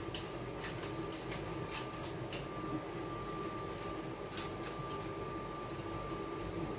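Steady kitchen hum and hiss with a thin steady whine and a few faint light ticks, the background of a steamer or stove running.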